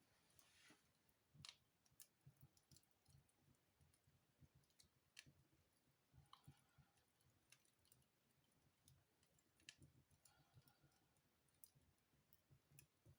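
Faint crackling of a wood fire burning in a fireplace: sharp clicks coming at irregular intervals.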